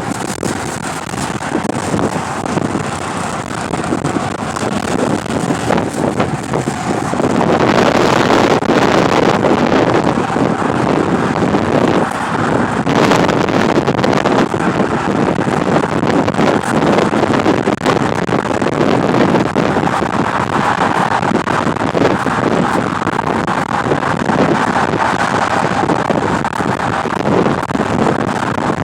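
Wind rushing over the microphone, mixed with the noise of a car. It is a steady roar with no clear tones, and it gets louder about seven seconds in.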